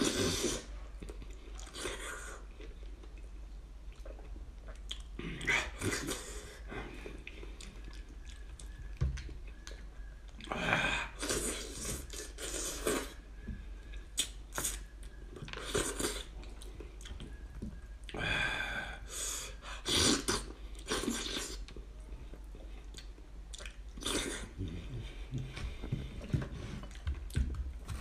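Close-up chewing of boiled sheep's head meat, coming in irregular bursts every few seconds.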